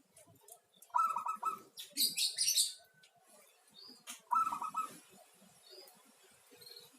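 Zebra dove cooing: two short phrases of quick, repeated notes, about a second in and again about three seconds later. High chirps from a smaller bird come between them.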